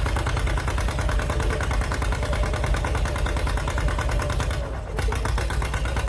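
Antique farm tractor engine running with a steady, rapid beat of firing pulses and a deep rumble, dipping briefly about three-quarters of the way through.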